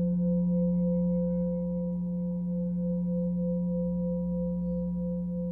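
Singing bowl ringing with a deep steady hum and a higher tone that wavers in a slow pulse, fading gradually.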